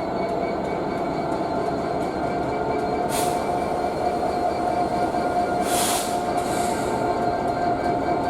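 Class 66 diesel locomotive and its freight wagons moving through, a steady rumble under a constant high whine, with two short hisses about three and six seconds in.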